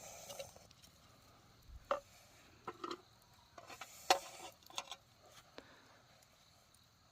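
A few light knocks and clinks of small hard objects being handled, the sharpest about four seconds in.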